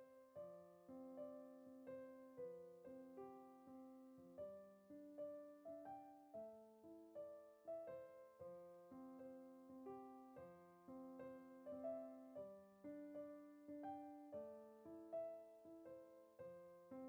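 Soft background piano music: gentle, evenly paced notes in a repeating pattern, played quietly.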